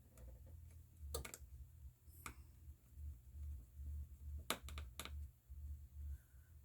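Faint, sharp clicks and taps of small repair tools on an iPhone 13's internal parts as they are fitted back in place, about four over a few seconds, over a steady low hum.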